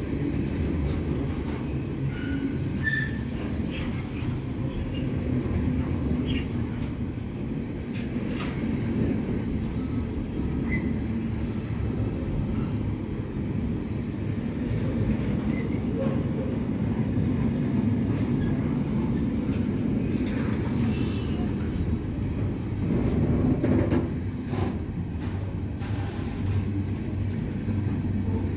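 A train running along the line: a steady low rumble, with scattered sharp clicks that bunch together near the end.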